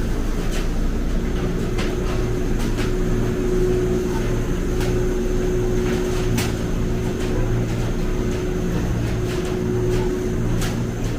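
Steady low mechanical hum with a faint held tone above it and a few scattered light clicks.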